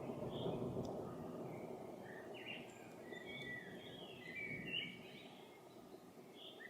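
A songbird singing quick runs of chirps and warbling notes over the low rumble of thunder, which dies away over the first couple of seconds.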